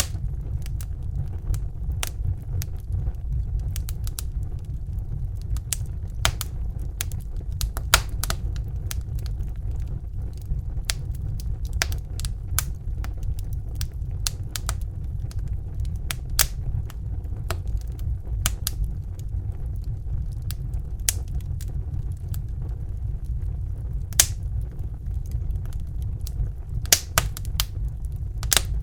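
Crackling wood fire, with irregular sharp pops and snaps, over the steady low roar of a Bunsen burner flame.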